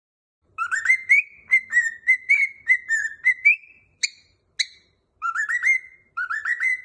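Cockatiel whistling a song: a run of rising whistled notes, then two sharp chirps about four seconds in, then two short runs of quickly rising notes near the end.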